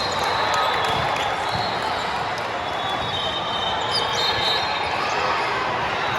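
Sports-hall sound from a volleyball match: sneakers squeaking on the court floor several times, and a ball bouncing, over a steady murmur of crowd chatter.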